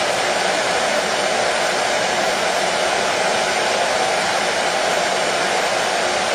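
Hair dryer running continuously with a steady, even whoosh of air and motor hum.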